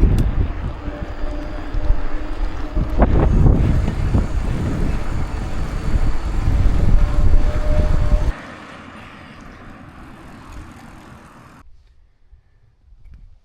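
Wind buffeting the microphone on the move, a heavy low rumble with a faint steady hum under it; it cuts off abruptly about eight seconds in, leaving only a faint hiss.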